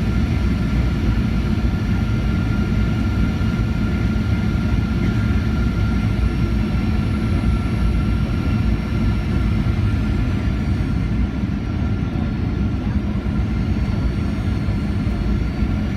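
Steady cabin noise inside a Boeing 737-800 airliner: a deep rumble of engine and airflow, with a faint steady whine above it.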